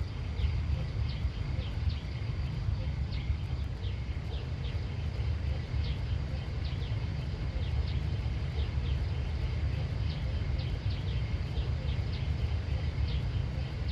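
Outdoor countryside ambience: many short, high chirps of small birds, several a second, over a steady low rumble.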